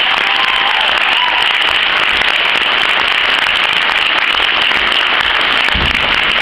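Audience applauding steadily, with instrumental music starting up near the end.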